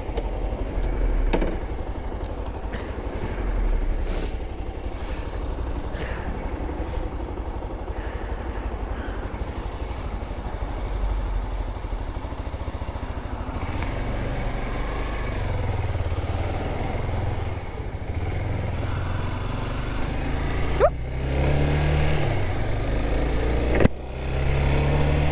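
Honda 250 dual-sport motorcycle's single-cylinder engine running under way, with rushing wind noise. From about halfway the engine note steps up and down in pitch, and it climbs again near the end.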